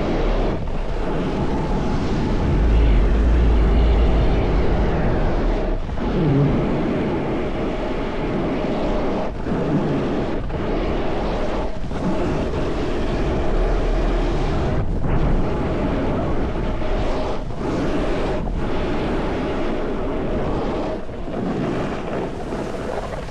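Wind rushing and buffeting over the microphone, with the steady hiss and scrape of a snowboard sliding over snow, cut by brief dips every second or two.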